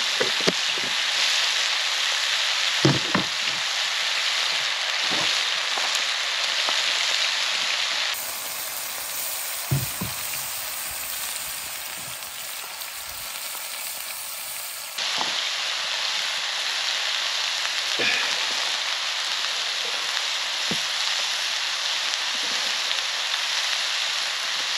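Mushrooms frying in oil in a pan over a campfire, a steady sizzle as they give off their water. It turns quieter for several seconds about a third of the way in, then comes back, with a few light knocks.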